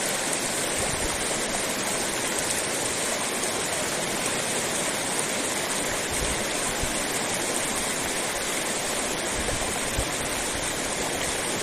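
Steady rush of a fast-flowing river, with a few faint low bumps.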